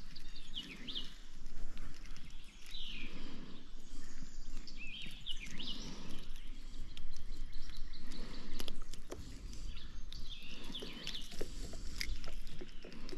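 Songbirds chirping in short repeated phrases over steady outdoor background noise, with scattered small clicks and knocks.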